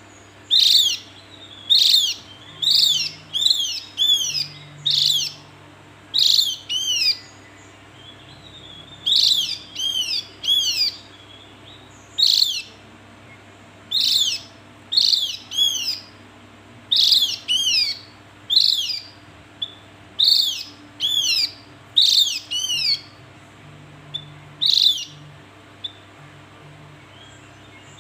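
Javan grey-throated white-eye (opior jawa) calling: short, sharp, down-arching notes, given singly or in quick pairs and triplets about every second or so, with a faint steady low hum beneath.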